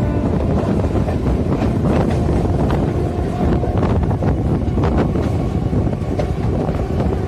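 Running noise of a moving suburban local train: a steady rumble of wheels on rails with wind buffeting the microphone, and scattered sharp clacks.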